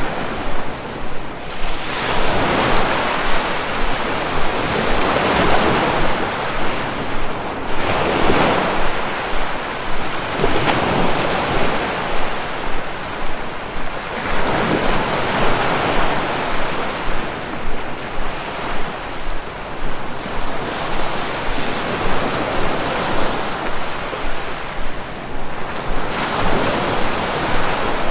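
Sea waves breaking and washing on the shore, a continuous surf rush that swells every few seconds as each wave comes in.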